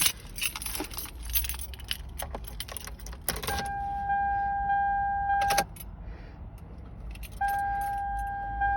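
Car keys jangling and clicking, then a steady electronic warning tone from the Toyota Highlander's dashboard sounds for about two seconds, stops, and starts again near the end.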